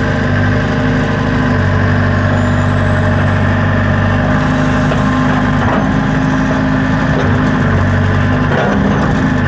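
Backhoe's diesel engine running steadily. Its low note swells and eases several times as the machine is worked.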